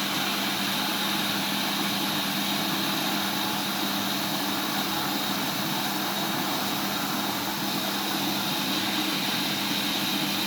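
Siemens iQ700 front-loading washing machine running during its fabric-softener rinse: a steady hiss with a constant low hum that does not change.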